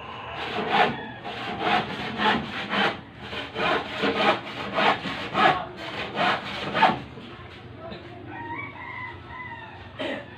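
Rhythmic rasping strokes of a hand tool worked back and forth, about two a second, stopping about seven seconds in. A rooster crows shortly after.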